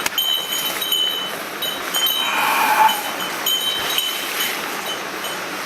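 Spinning reel being cranked in short stretches, a thin whir with light clicking, over the steady rush of a mountain stream.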